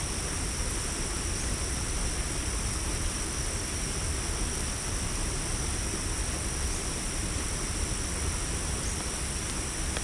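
Night insect chorus of crickets: a steady, unbroken high-pitched trill, with a few faint campfire crackles over a low rumble.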